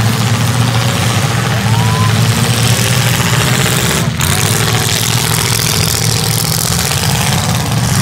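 Demolition derby cars' engines running together, a loud steady low rumble.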